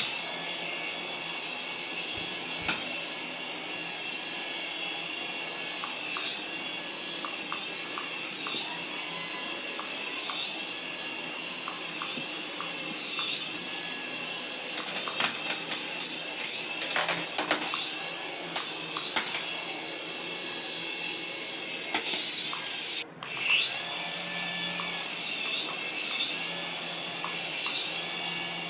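Small electric toy motor whining at high speed. Its pitch dips and recovers every couple of seconds as if briefly loaded. About 23 seconds in it cuts out for a moment, then starts again and winds up.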